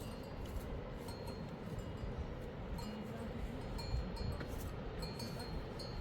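Small livestock bells tinkling now and then over a steady rushing noise of flowing water.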